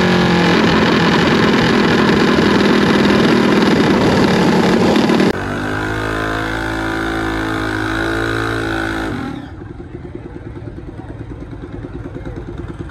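Vehicle engines at a drag strip. A loud engine runs hard at first; about five seconds in, the sound cuts abruptly to a steadier engine note. Near the end it cuts again to a quieter engine idling with a fast, even pulse.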